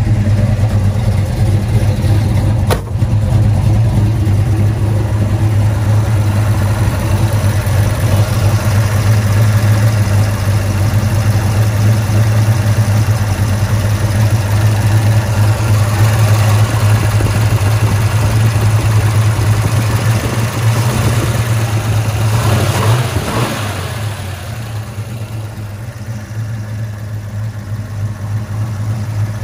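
Chevrolet 396 big-block V8 with dual exhaust running at a steady idle, with a brief rise and fall in revs about three-quarters of the way through and a single sharp click near the start.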